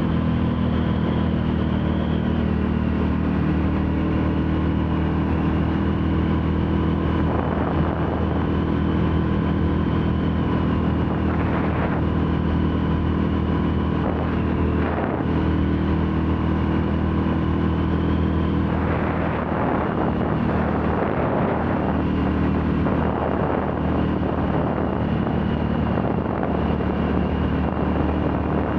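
Royal Enfield Classic 350's single-cylinder engine running steadily while riding at a constant speed. A rushing noise grows stronger about two-thirds of the way through.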